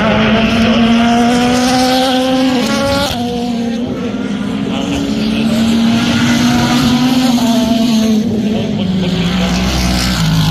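Race car engine at high revs, its note climbing slightly then dropping sharply about three seconds in, then holding steady before falling lower near the end.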